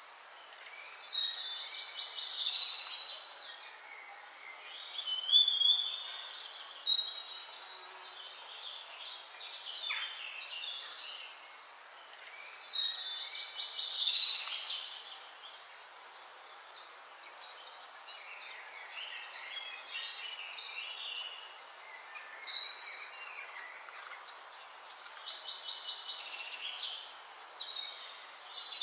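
Songbirds singing: bursts of high, fast, chirping phrases and trills every few seconds over a faint steady hiss.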